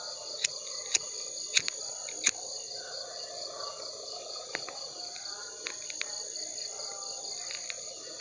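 Steady chorus of night insects, crickets, with a fast pulsing trill. Several sharp clicks fall in the first two or three seconds.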